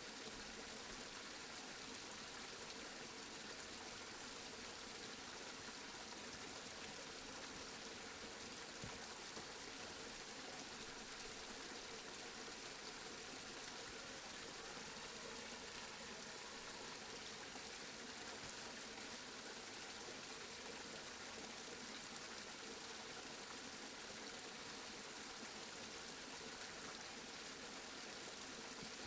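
Steady rain, an even hiss without pauses or changes.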